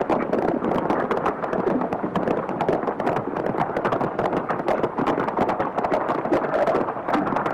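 Horses' hooves galloping: a fast, dense clatter of hoofbeats on hard ground that does not let up.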